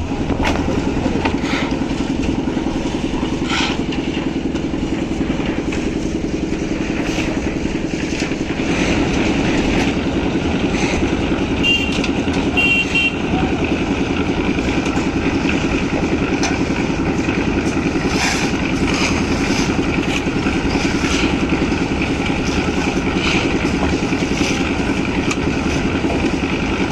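Engine of construction machinery running steadily, with two short high beeps about halfway through.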